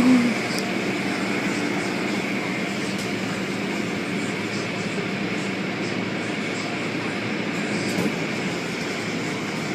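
Automatic car wash machinery running steadily: a constant rushing noise with a low, even hum underneath.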